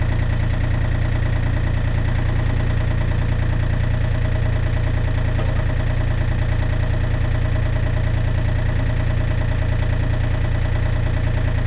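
John Deere 35D compact excavator's diesel engine idling steadily.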